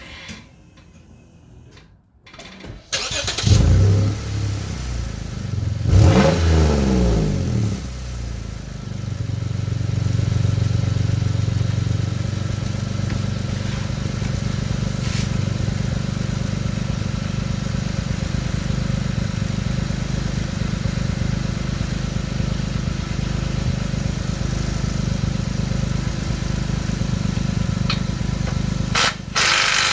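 A 2006 Lexus GS300's V6 engine is started about three seconds in to test an exhaust-leak repair. It is revved up and back down once, then settles into a steady run. A brief loud noise comes near the end.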